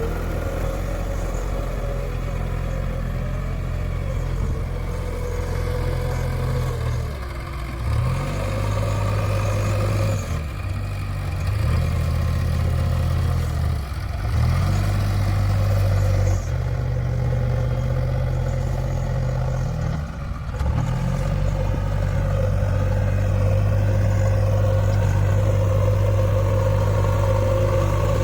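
Diesel engine of a JCB 3DX backhoe loader running steadily, its pitch dipping briefly and picking up again several times.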